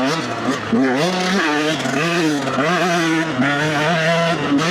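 Dirt bike engine being ridden, its pitch repeatedly rising and falling as the throttle is opened and closed.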